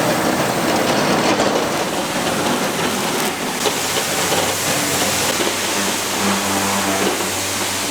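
Steady sizzling of food cooking in a large cast-iron pan.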